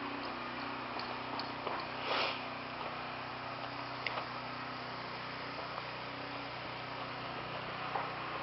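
A steady low mechanical hum with a few faint ticks, and a short hiss about two seconds in.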